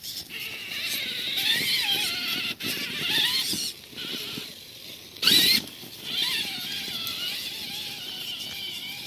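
Electric motor and gearbox of a radio-controlled scale trail truck whining, the pitch rising and falling as the throttle is worked over rough ground. A brief loud noise cuts across it about five seconds in.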